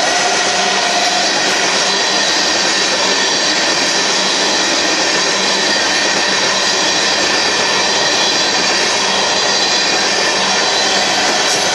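Freight train tank cars rolling past at speed: a loud, steady rush of wheels on rail, with high steady whining tones over it.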